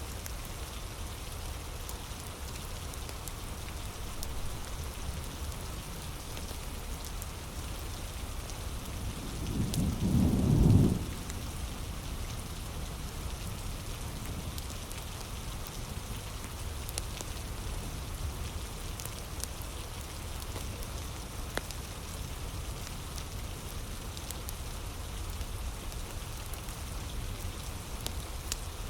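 Heavy rain falling steadily, with a low rumble of thunder that builds about ten seconds in and cuts off a second or so later. A few faint crackles from a wood fire are scattered through.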